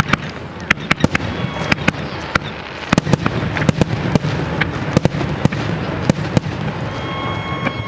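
Fireworks display: aerial shells bursting in a rapid, irregular string of sharp bangs and crackles, many overlapping.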